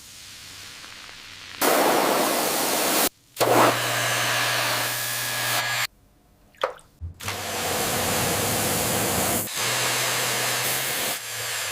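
Three long bursts of loud, even hiss from a spray or air jet, the last about four seconds long, with a low steady motor hum under the second and third.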